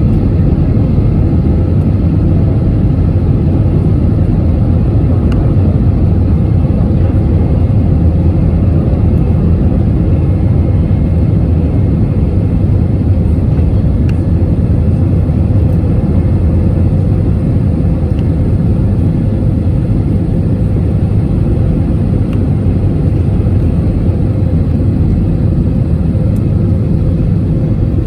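Steady low rumble of an Airbus A321 jet airliner, engine and airflow noise heard inside the passenger cabin, with a faint steady tone above it.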